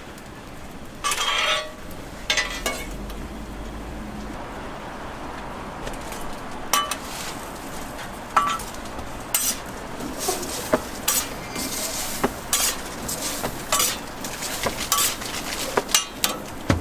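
Metal cooking spatula clacking and scraping on a flat-top griddle while toast is being made. The taps are scattered at first and come quickly and often from about halfway through.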